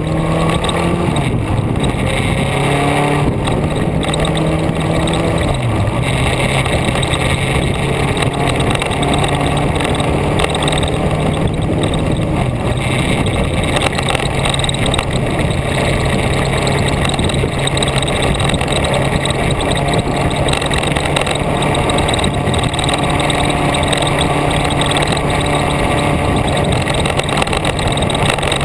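Vehicle engine running steadily under way, with heavy road and wind noise; the engine note drops and rises in steps a few times as the gears change.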